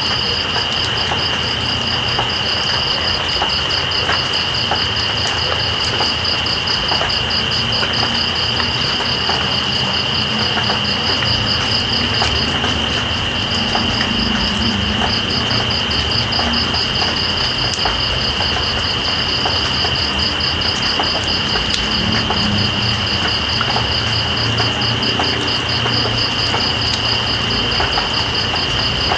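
Steady rain falling, with faint scattered drop ticks, under a chorus of night insects. One insect holds a continuous high trill, and another gives a rapidly pulsing high chirp that breaks off briefly about 13 seconds in.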